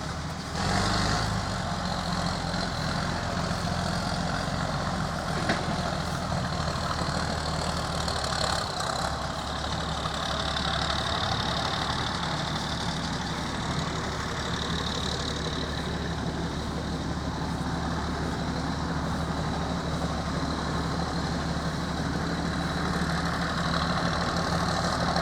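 Tractor engine idling steadily with a low, even beat; it grows louder about half a second in.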